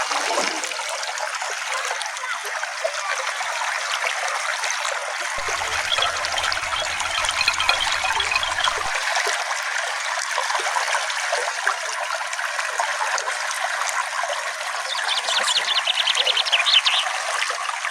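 Small stream running steadily, a continuous trickling rush of water. Near the end a bird gives a fast, high trill lasting about two seconds.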